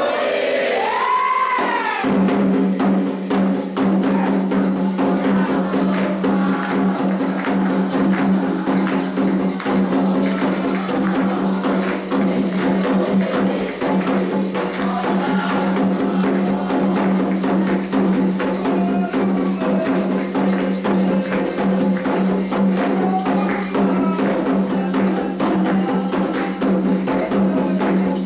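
Candomblé atabaque drumming, a fast rhythm of dense hand-drum strikes with light percussion, played as the rum for Iansã. A steady low tone comes in under the drums about two seconds in.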